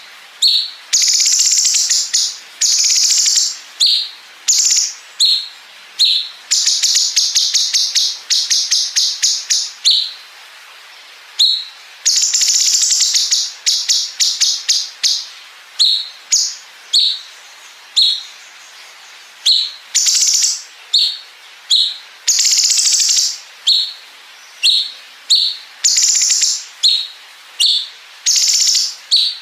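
Cucak cungkok (blue-winged leafbird) singing a long unbroken song: short high whistled notes alternating with several long, very rapid rattling runs of notes, the 'bren' fill that gives the song its machine-gun sound.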